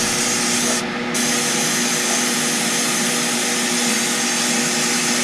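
Media blaster (sandblaster) nozzle blasting paint off a cast-iron vise part: a loud, steady hiss of air and abrasive over a low machine hum, briefly easing off about a second in before carrying on.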